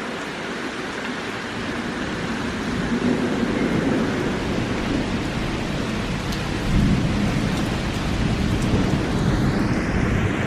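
Heavy rain falling steadily, with a low rumble swelling underneath in places.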